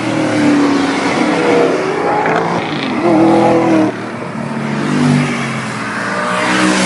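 Performance car engines revving hard as cars accelerate away, the exhaust note climbing in pitch, dropping off sharply a little after the middle, then climbing again near the end.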